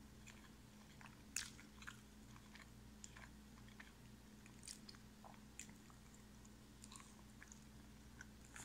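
A person chewing breaded chicken strips with the mouth closed: soft, scattered crunches and wet mouth clicks, the loudest about a second and a half in. A steady low hum runs underneath.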